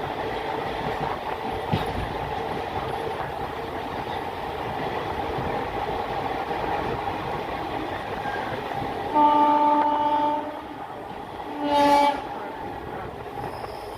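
Circar Express passenger train running with a steady rumble, then the locomotive horn sounds twice: a long blast about nine seconds in and a shorter one about two seconds later.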